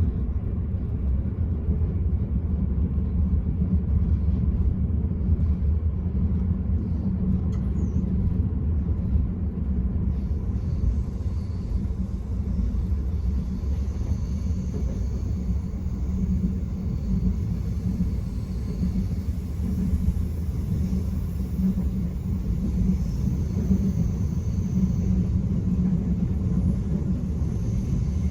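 Steady low rumble of an Enterprise passenger train running along the line, heard from inside the carriage. A faint high hiss joins about ten seconds in.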